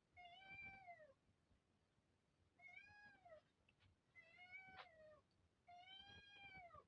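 A cat meowing four times, faintly. Each meow is about a second long and rises then falls in pitch.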